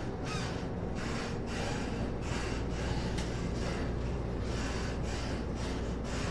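Cabin running noise of a Taiwan Railways EMU800-series electric commuter train rolling slowly on the line: a steady low rumble of wheels on rail under a hiss that swells and fades.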